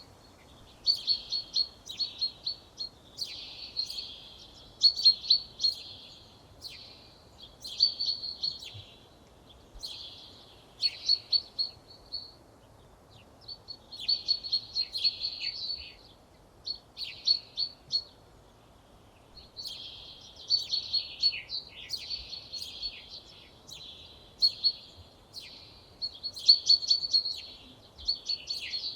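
Songbird song: short phrases of rapid, high trilled notes, repeated one after another with brief pauses between them.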